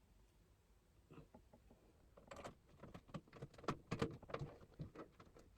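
Faint clicks and light metallic taps of a screwdriver and small screws being worked into a PC case. One tap comes about a second in, then a busy run of them through the second half.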